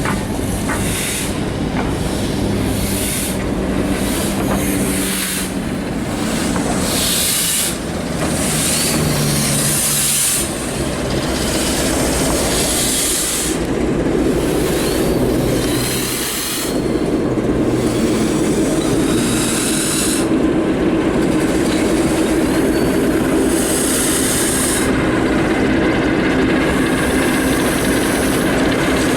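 A train running along the line: a steady loud rumble of the running gear on the rails, with repeated rushes of high hissing every second or two.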